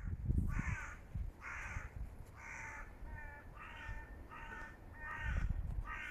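A crow cawing over and over, about eight harsh caws roughly a second apart, with low rumbles of wind or handling on the microphone near the start and again toward the end.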